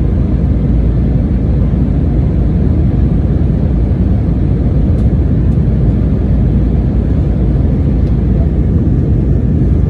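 Airliner cabin noise during the climb after takeoff: a loud, steady rumble of the engines and rushing air.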